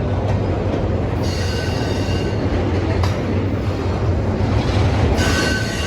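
Norfolk Southern intermodal freight train rolling past, a steady low rumble of cars on the rails. High-pitched wheel squeal rises over it about a second in and again near the end.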